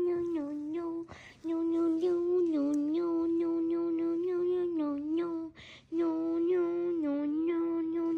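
A high voice humming one note over and over, wavering slightly in pitch. It stops twice for a quick breath, about a second in and again about five and a half seconds in.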